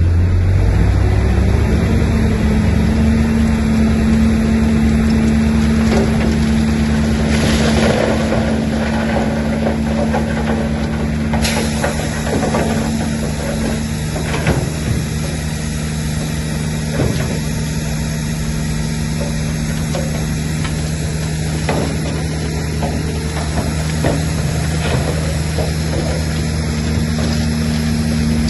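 Bulldozer's diesel engine running steadily, its pitch rising about two seconds in and then holding, with scattered clanks and knocks throughout.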